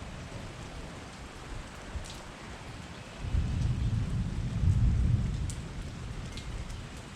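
Steady rain falling, with a deep roll of thunder that swells up about three seconds in, peaks around five seconds and fades away near the end.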